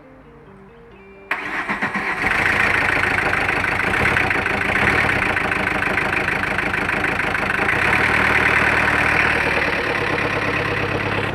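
Audi 80 engine cranked over by the starter, catching after a few quick pulses a little over a second in and then running steadily.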